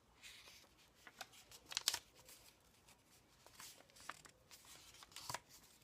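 Paper pages of a handmade journal being handled and turned: soft rustles and crinkles with a few sharper paper clicks, the loudest about two seconds in.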